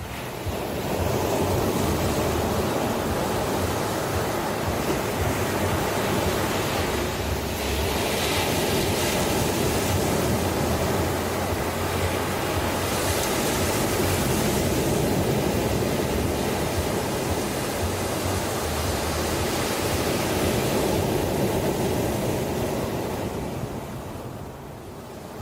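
Ocean surf: waves breaking and washing in a steady rush that swells about a second in and eases off near the end.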